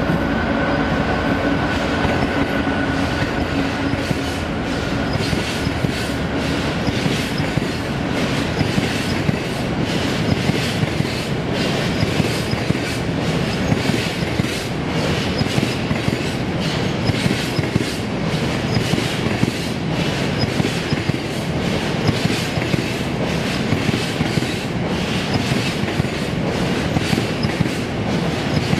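Freightliner Class 66 diesel locomotive (two-stroke V12) passing at speed, its engine note fading away in the first few seconds. A long train of bogie hopper wagons follows, rushing past with a steady rumble and a regular clickety-clack of wheels on the track.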